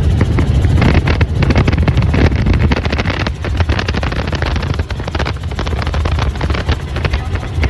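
Helicopter running: steady, loud low rotor and engine noise.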